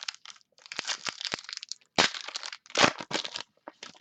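Crinkling and crackling of a trading-card pack's wrapper being handled and torn open, in irregular bursts.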